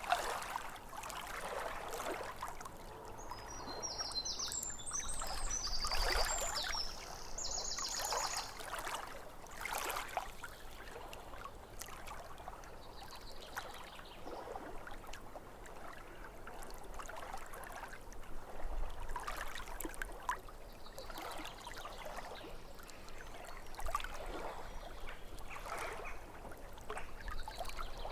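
Small waves lapping at a lake shore in irregular splashes. A bird sings briefly a few seconds in.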